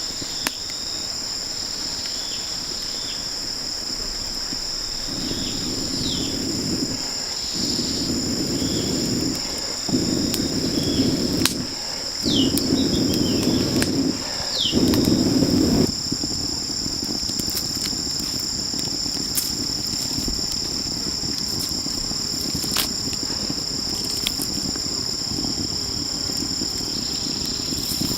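A steady chorus of insects, two high shrill tones held without a break. Between about five and sixteen seconds in, five louder rough noises come one after another, each about a second and a half long, and a few short falling bird chirps are heard among them.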